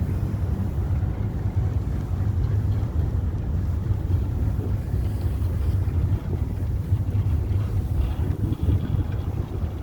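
Steady low rumble of the Torpoint chain ferry under way, with wind buffeting the microphone.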